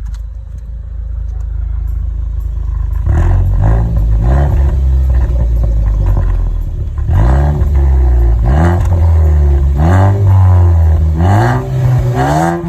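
Ford Focus ST engine idling with its resonator cut out of the exhaust, then revved in several short blips from about three seconds in, the exhaust note louder and rougher without the resonator.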